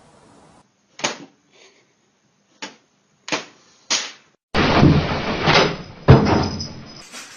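Five short sharp knocks spaced unevenly over about three seconds, then a loud rattling clatter lasting a couple of seconds, with a heavy bang in the middle of it.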